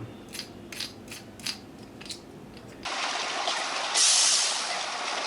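A few light clicks of a small plastic toy vehicle being handled. About three seconds in, a steady mechanical whirr starts abruptly and swells briefly.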